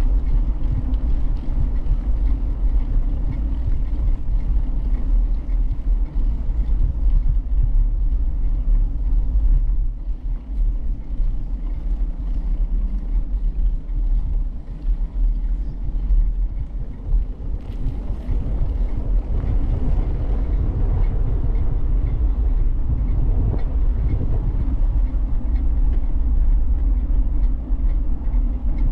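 Steady low rumble of wind buffeting the microphone of a camera carried on a moving bicycle, easing slightly for several seconds in the middle.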